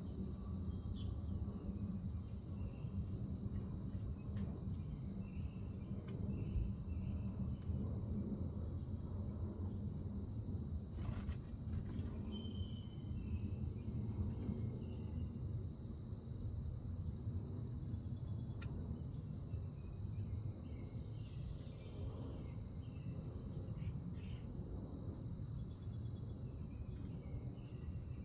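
Insects trilling in a steady high-pitched chorus, with scattered short bird chirps over a low rumble of background noise.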